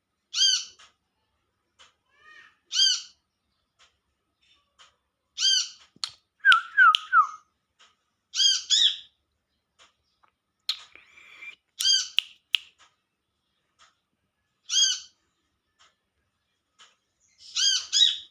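Brown-throated sunbird (kolibri kelapa) calling: a short, sharp call note repeated about every three seconds, with a quick run of three falling notes about six to seven seconds in and a busier, scratchier phrase around twelve seconds in.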